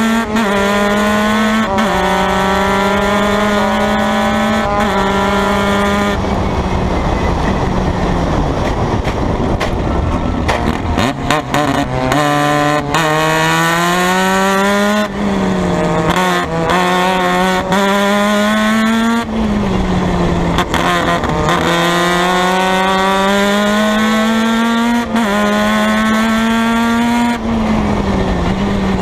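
Formula Mazda race car's Mazda rotary engine at full throttle. Its pitch climbs through the gears and drops sharply at each upshift, then falls as the car brakes and shifts down. In a rougher middle stretch the pitched sound gives way to noise and a run of clicks.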